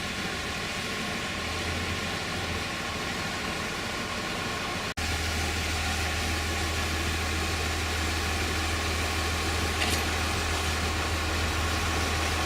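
Vehicle engine idling with a steady low hum. There is a brief break about five seconds in, after which the hum is a little louder.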